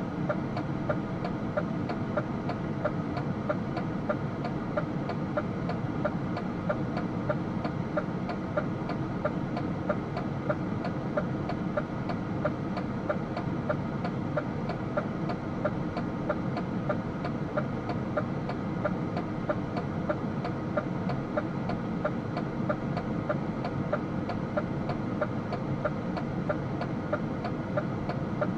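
DAF truck's diesel engine running steadily, with a regular ticking a little faster than once a second.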